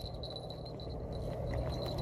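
Steady low rumble of background noise, with a faint steady high-pitched tone above it.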